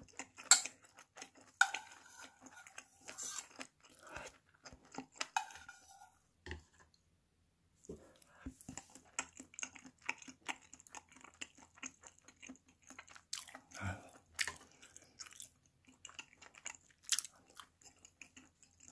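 A person chewing food close to the microphone, with many small, quick crunches and bites; the sound drops out completely for about a second around the middle.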